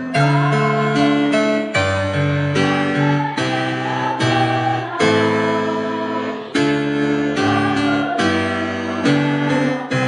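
Keyboard accompaniment playing sustained chords that change about every second, as music for a choir performance.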